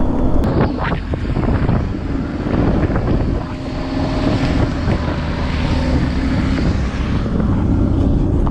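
Motorcycle riding at speed: engine running steadily under heavy wind buffeting on the microphone. A few knocks come near the start, and then the sound turns duller.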